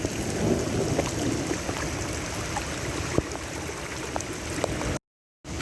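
Floodwater rushing in a creek overflowing at a bridge, a steady rush of water with rain falling and scattered sharp drop ticks. The sound cuts out for a moment near the end.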